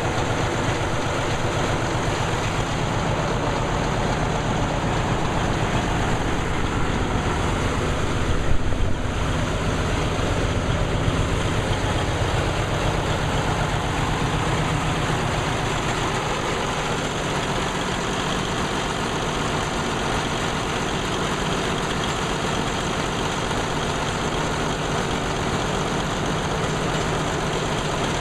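Engine powering a belt-driven sawmill, running steadily, with a brief louder moment about nine seconds in.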